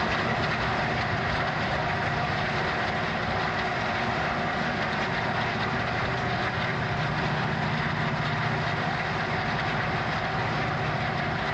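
Diesel train running along the track: a steady engine drone mixed with the even rolling noise of wheels on rails.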